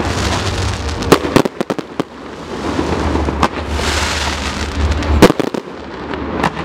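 Fireworks display: several sharp bangs of bursting shells, the loudest about a second in and again near five seconds, over a continuous crackle and low rumble.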